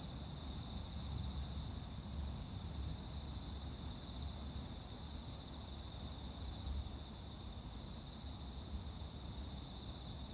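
Night insects, crickets among them, singing in a steady chorus of high continuous trills at two pitches, with a fainter call pulsing at an even rhythm. A low rumble lies underneath.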